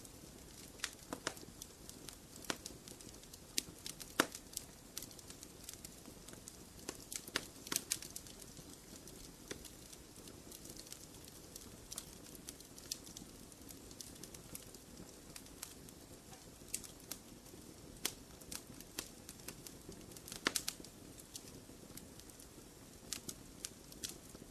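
Wood fire crackling in a fireplace: irregular sharp pops and snaps, a few louder than the rest, over a soft steady hiss of the flames.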